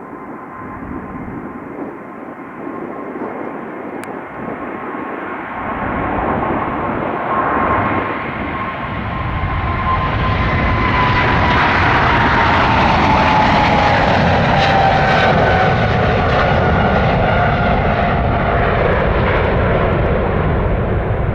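Boeing 777-300ER jet departing under takeoff power, its GE90 engines growing louder through the first half. A whining tone then slides down in pitch as the jet passes by.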